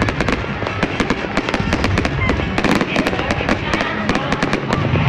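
Fireworks display: a dense run of sharp bangs and crackles from aerial shells bursting overhead, the cracks coming many times a second over a steady low rumble.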